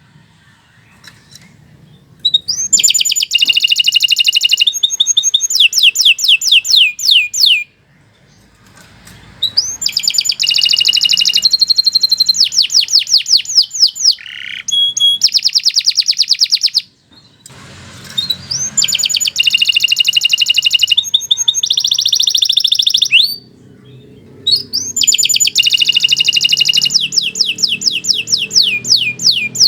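Domestic canary singing a long song in four extended phrases with short pauses between them. Each phrase is made of fast trills and rapidly repeated high notes, changing pattern partway through. A faint low rumble sits underneath near the end.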